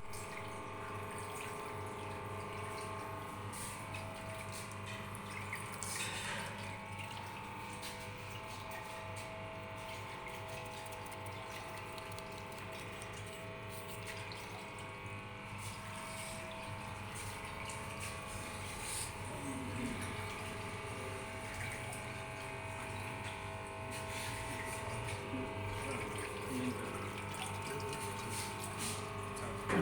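Water flowing steadily through a channel, over the constant hum of a pump.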